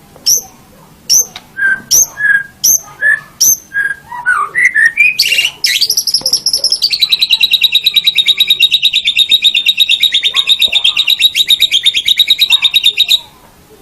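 White-rumped shama singing: a string of sharp, high down-slurred whistles about two a second, then a few rising notes, then a long, fast, even trill held on one pitch for about seven seconds that stops abruptly near the end.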